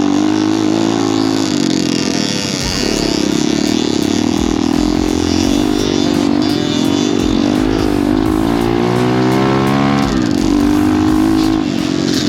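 Small pit bike engine running under riding load, its pitch dropping and climbing again several times as the throttle and gears change.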